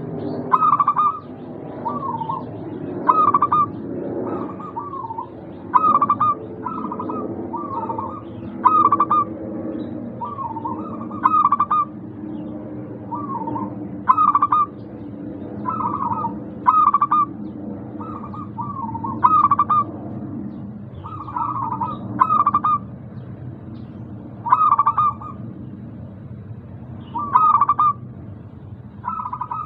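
Zebra doves (perkutut) cooing: short, repeated call phrases every second or two over a steady lower background. This is lure audio used to prompt caged perkutut that are reluctant to call.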